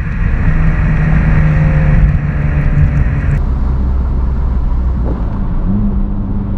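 BMW inline-six engine pulling steadily under throttle. After about three seconds it comes off the throttle and falls to a low rumble, then settles into a steady cruising note near the end.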